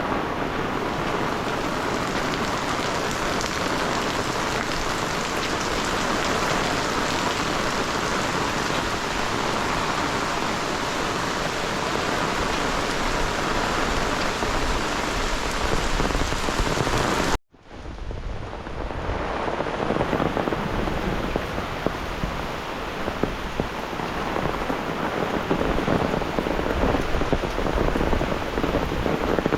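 Heavy rain falling steadily. The sound cuts out for a split second about seventeen seconds in, then the rain comes back, a little duller at first.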